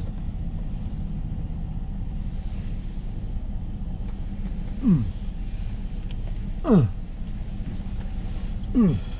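A man groans three times, each groan a short drop in pitch, as his aching back pains him. Under the groans, a car's engine idles with a steady low rumble, heard from inside the cabin.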